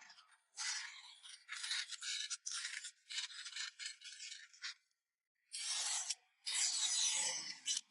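A hand tool scraping across wood in a quick run of short strokes. After a brief pause come two longer strokes.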